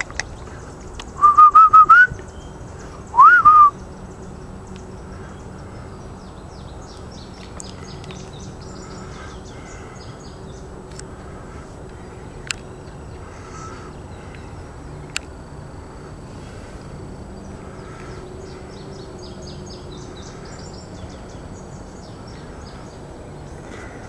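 A bird gives two loud, harsh calls close by about a second apart, the first held and rising slightly, the second sweeping up and falling back. Faint birdsong and a couple of small clicks follow over steady outdoor background.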